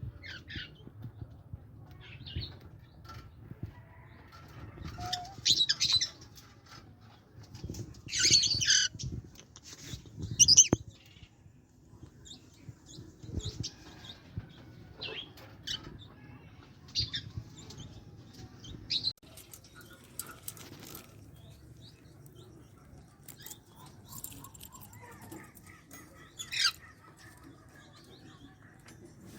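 Senegal parrots giving short, sharp squawks and calls at irregular intervals, loudest and most frequent about a third of the way in, over a low steady background rumble.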